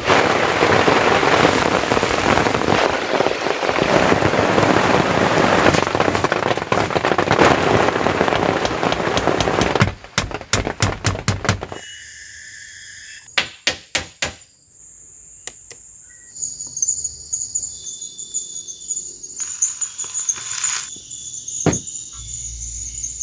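Heavy rain pouring down for about the first ten seconds, then a run of sharp clicks and knocks. After that, insects such as crickets or cicadas keep up a steady high-pitched drone over quiet forest ambience.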